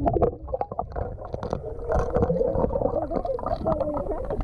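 Pool water splashing and sloshing as otters swim about, with many small clicks and knocks.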